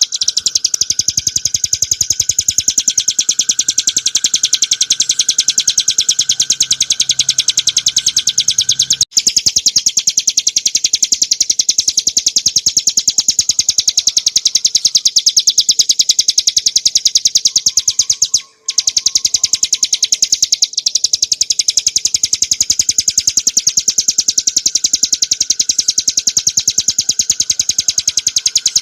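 Ciblek gunung, a small prinia, singing a continuous, very fast trilling song of rapidly repeated high notes. It breaks off for a moment about nine seconds in and again near eighteen seconds.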